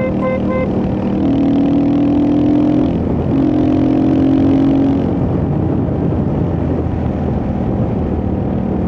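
Royal Enfield Hunter 350's single-cylinder engine running steadily under way. The engine note breaks briefly about three seconds in, then carries on.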